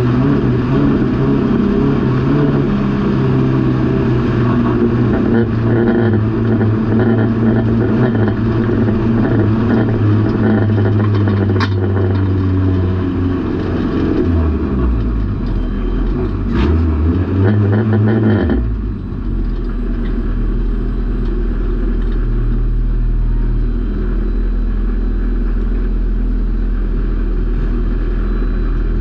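Junior banger race car engine heard from inside the stripped cabin, running on steady throttle, then easing off about halfway through with a brief rev. It drops to a low, steady idle about two-thirds of the way in as the car comes to a stop.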